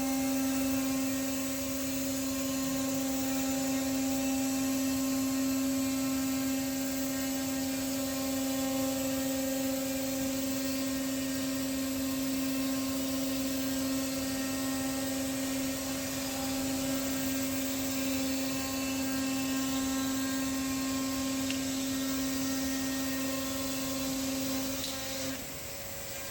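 Spindle of an SM 1500R CNC router-bit jigsaw machine running steadily with a high, even whine and a hiss of noise. The whine drops out about a second before the end.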